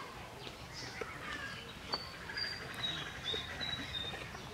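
Small birds chirping, with a run of short high whistled notes in the middle. A few light clicks and taps sound over them, the sharpest about two seconds in.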